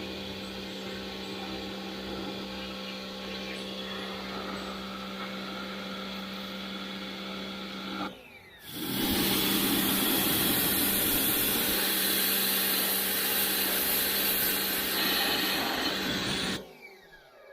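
Pressure sprayer's motor running with a steady hum. About eight seconds in, a loud hiss of water jetting from the spray wand joins it and lasts most of the rest, breaking off briefly near the end.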